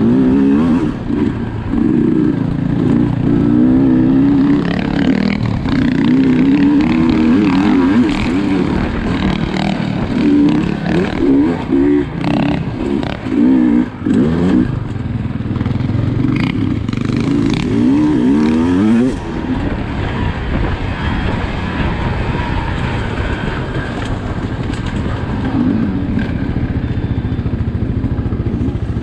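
Sherco SE 300 two-stroke enduro motorcycle engine revving up and down as it is ridden over the course, with a few sharp knocks. About two-thirds of the way in it settles to a steadier, lower run.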